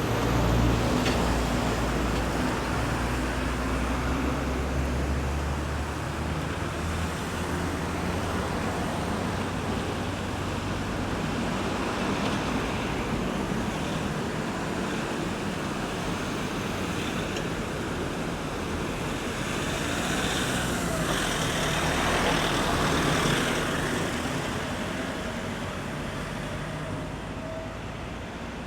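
Road traffic passing a roundabout: a steady wash of tyre and engine noise, with a heavy vehicle's low engine rumble in the first few seconds and another vehicle passing more loudly a little after the middle before the noise eases off near the end.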